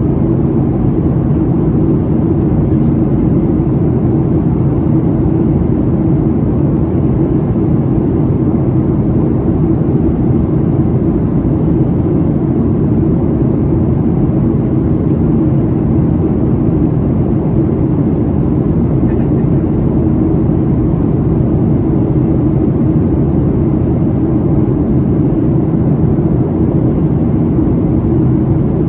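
Steady cabin noise inside a Boeing 737-700 airliner in flight at the start of its descent: its CFM56-7B engines and the airflow past the fuselage give an even, low drone.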